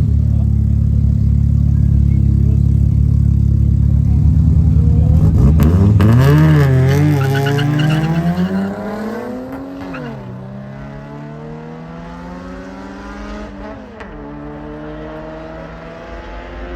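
A car's engine running loud at the start line, then launching about five seconds in: the revs climb and waver briefly, and it pulls away through two upshifts, the sound fading as it goes.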